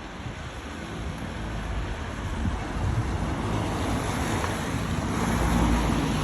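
A steady rushing noise over a low rumble, swelling a few seconds in and loudest near the end.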